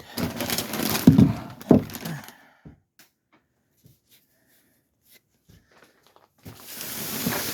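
Rustling handling noise with a couple of dull thumps, then quiet, then a short burst of hiss near the end.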